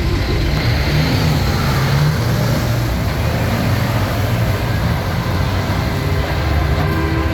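Heavy diesel semi-truck engines running loud and steady, deep and rumbling.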